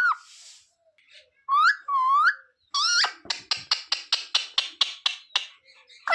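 Pet green parrot calling: two short whistled calls that bend up and down, then a fast run of sharp chattering notes, about four a second.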